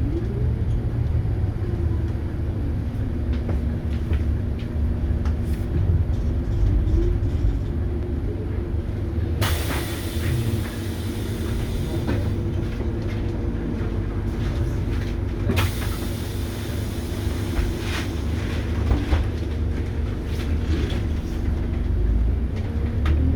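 Scania DC9 diesel engine of a city bus running steadily under way, with deep road rumble and scattered rattles and knocks. Two stretches of hiss come in, about ten and sixteen seconds in, each lasting a couple of seconds.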